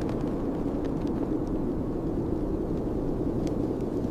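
Steady low rushing wind of a blizzard, with a few faint clicks.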